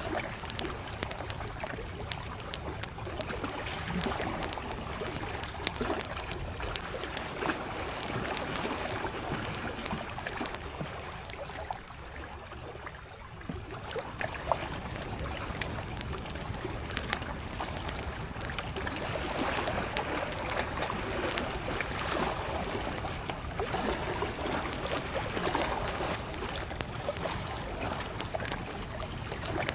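Campfire crackling with frequent sharp pops over small lake waves lapping at the shore. The water noise eases briefly about twelve seconds in, then returns.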